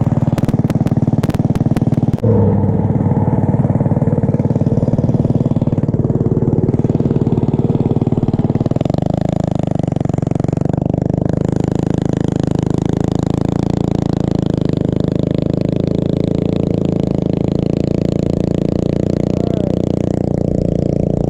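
Mini bike's small engine running steadily, its note changing about two seconds in and again near nine seconds.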